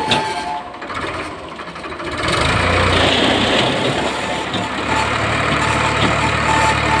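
Tractor diesel engine running, quieter for a moment about a second in and then louder and steady from about two and a half seconds on.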